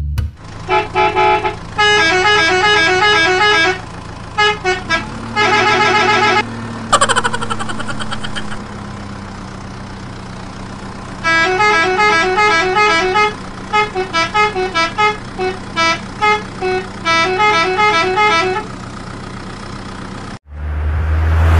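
A tinny electronic beeping tune played in short repeated phrases over a steady low motor hum, with a rapid rising warble about seven seconds in. The tune cuts off suddenly near the end and a louder low buzzing tone takes over.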